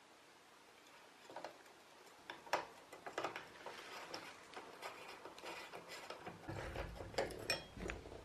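Irregular light clicks and taps of metal tools and bicycle parts being handled, a few sharper knocks among them, with a low rumble over the last two seconds.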